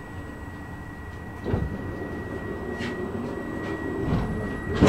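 Inside a Stockholm commuter train carriage: a steady rumble with a thin, steady high tone, a thump about a second and a half in, and a louder knock near the end.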